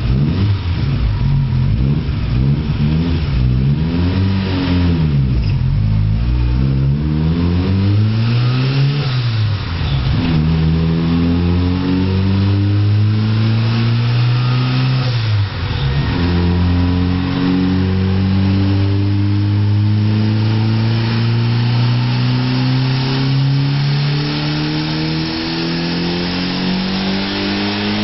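Turbocharged 1993 Suzuki Swift GTi engine revving on a chassis dyno: several quick rises and falls in revs over the first ten seconds, then the revs climb steadily, drop sharply about fifteen seconds in, and climb again more slowly through to the end of a loaded pull.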